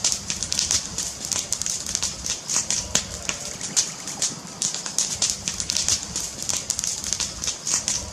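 Wood fire crackling in a fireplace: a dense, irregular patter of sharp pops and snaps over a low steady rumble.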